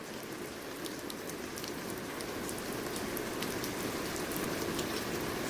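Steady rain falling on a surface, a dense hiss with many separate drop ticks, fading in and growing gradually louder.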